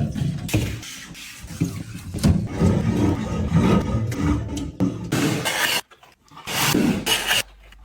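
Irregular rubbing, scraping and rustling of grocery containers and packaging being handled, broken by a brief silence about six seconds in.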